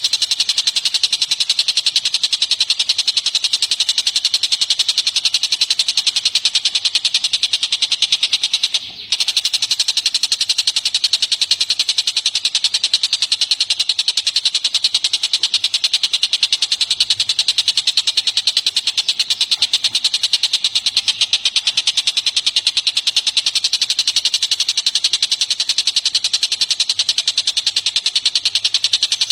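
Recorded birdsong played for song training: one continuous, very fast high-pitched trill or chatter, evenly repeating, with a short break about nine seconds in.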